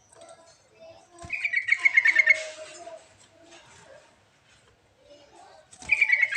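Yellow-vented bulbul (trucuk) song: two bursts of rapid bubbling notes, each falling slightly in pitch, about four seconds apart, with quieter chattering calls between them. It is a lure recording used to prompt captive bulbuls into song.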